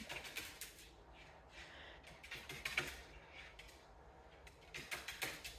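Pet parrot's claws clicking and tapping on a hard surface as it paces, in light, irregular clusters of clicks.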